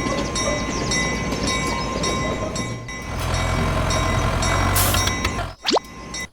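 Train running on the rails: a steady rumble with faint regular clicking, getting heavier about three seconds in, then dropping away with a short rising whistle near the end.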